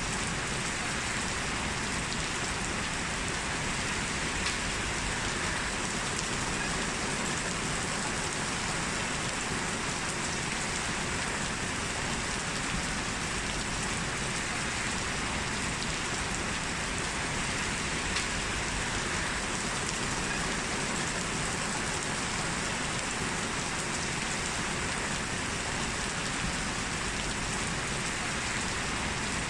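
Heavy rain falling steadily, an even hiss of rain with occasional single drops ticking out of it.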